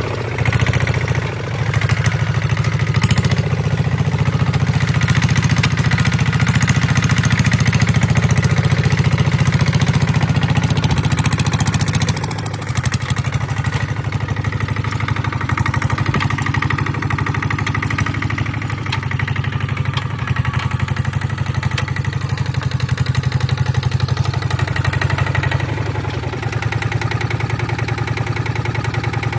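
Kubota ZT150 single-cylinder diesel engine running steadily under load while plowing. It drops a little in loudness about twelve seconds in.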